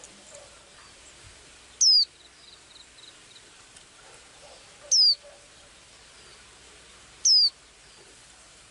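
A small songbird giving a short, loud, high whistle that sweeps downward, three times a few seconds apart, each followed by a few faint high chips.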